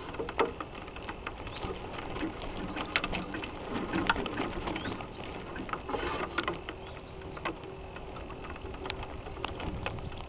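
Irregular clicking and rattling picked up by the onboard camera of a radio-controlled sailboat, with a faint steady hum coming in about six seconds in.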